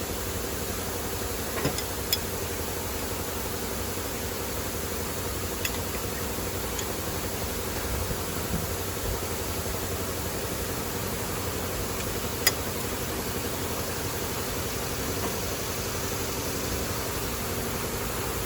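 Steady mechanical hum and hiss, like a running fan or engine, with a few short sharp clicks, one louder about twelve seconds in.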